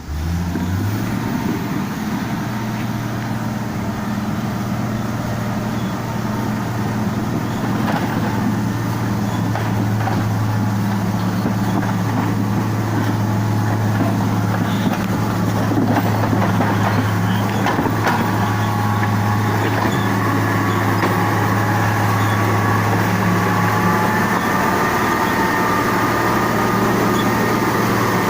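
Heavy road-repair machine's diesel engine running steadily with a low drone, a higher whine joining in about two-thirds of the way through.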